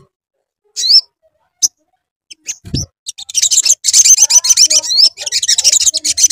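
Crimson sunbird (sogon) song: a single sharp rising chirp about a second in, then from about three seconds a fast, high, unbroken twittering song. A short low thump comes just before the twittering starts.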